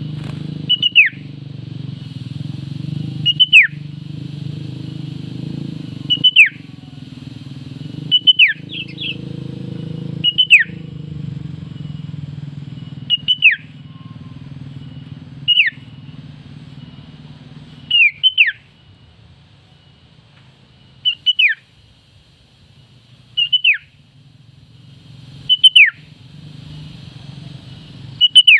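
Sooty-headed bulbul (female) giving short, repeated calls about every two seconds, each a high note that slides quickly downward, sometimes doubled. A low steady rumble runs underneath, fades out about two-thirds of the way through and comes back near the end.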